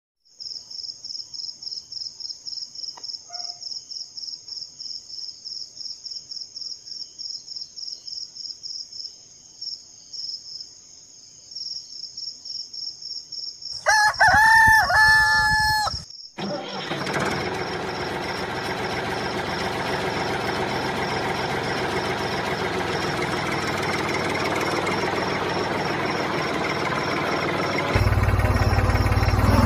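A high-pitched chirping pulses about four times a second. Then, about fourteen seconds in, a rooster crows once, loudly. A steady rushing noise with a low hum follows and grows stronger near the end.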